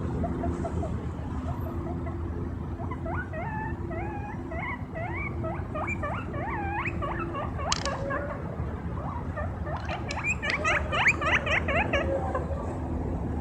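Guinea pig whistling: a long run of short, wavering squeaky calls that begins a few seconds in and comes faster and louder near the end, over a steady low hum.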